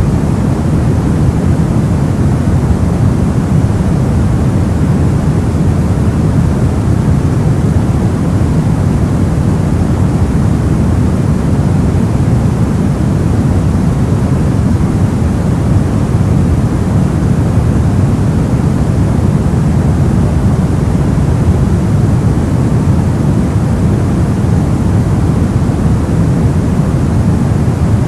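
Soft white noise: a steady, even hiss weighted heavily toward the low end, so that it sounds like a deep rumble.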